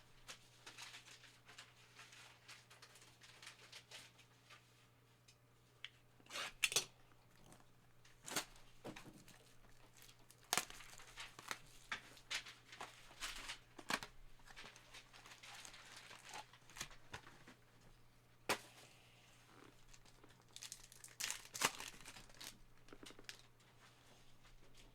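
Trading-card pack wrappers being torn open and crinkled, with cards and cardboard handled in irregular rustles and sharp clicks, over a faint steady hum.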